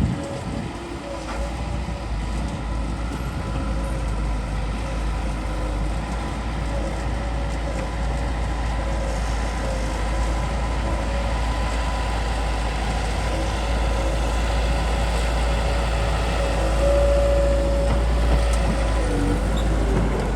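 Bulldozer's diesel engine running steadily, with a deep rumble and a steady whine over it that wavers slightly near the end.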